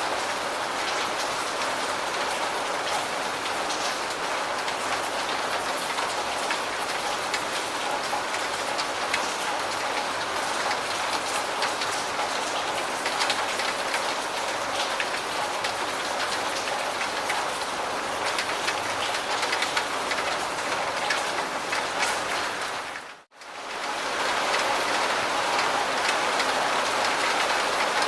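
Steady rain falling, an even hiss with individual drops heard as light ticks. Near the end it dips away for a split second and comes straight back.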